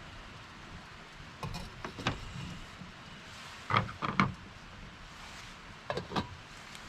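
Several short clunks and knocks of gear being handled, in three small clusters, over a steady hiss.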